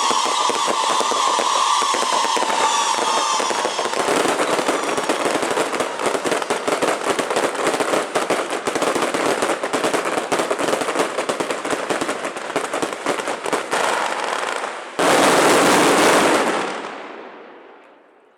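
A long string of firecrackers going off in a dense, rapid crackle, with a wavering whistle-like tone over it for the first four seconds. About fifteen seconds in, a sudden louder burst lasts a second and a half, then the crackle dies away.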